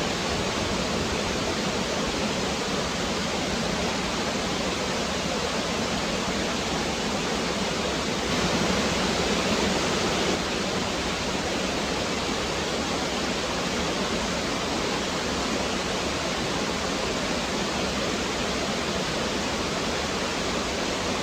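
Woodland stream running, a steady rush of water that grows slightly louder for about two seconds near the middle.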